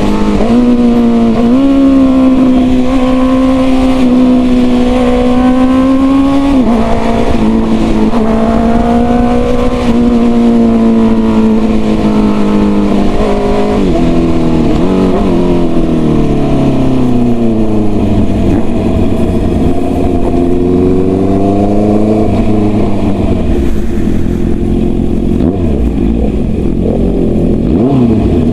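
Honda CB650R inline-four running through an aftermarket full-system exhaust at riding speed. The engine note holds fairly steady with small shifts in pitch for the first half. Past the middle the revs fall away, and the note then runs low and uneven.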